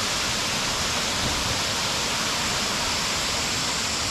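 Waterfall in full flow, a steady, unbroken rush of falling water.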